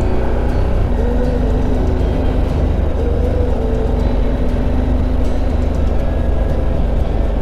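Motorcycle riding at speed: the engine runs steadily under heavy wind rumble on the rider's microphone, the engine note swelling slightly about a second and three seconds in.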